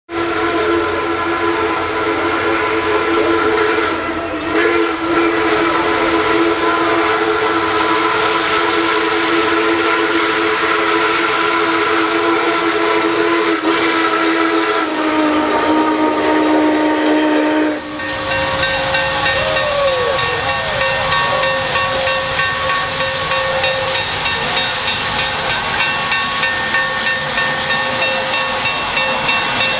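Union Pacific 3985, a 4-6-6-4 Challenger steam locomotive, sounding its steam whistle in one long blast of several steady tones. The pitch drops about 15 s in, and the whistle cuts off near 18 s, leaving loud steam hissing with fainter steady tones under it.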